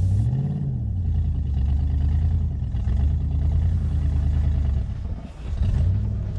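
1995 Mustang SVT Cobra's 5.0-litre V8 running at low revs under light throttle as the car is driven up onto ramps, revving up briefly about half a second in and again near the end.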